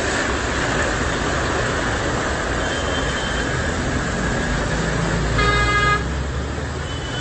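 Steady rushing noise with a low engine hum from road traffic, and a vehicle horn honking once, briefly, about five seconds in.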